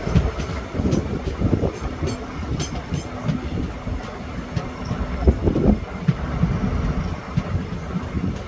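Train running on the track: a steady low rumble of the carriages with irregular knocks and clatter from the wheels and couplings.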